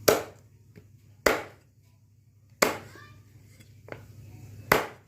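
Four heavy chopping strikes of a tool, a little over a second apart, each sharp and dying away quickly.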